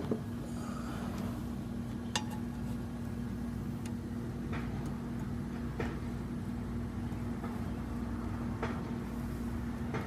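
Scattered small metallic clicks and clinks of hand tools on wiring, about half a dozen over a few seconds, over a steady low hum.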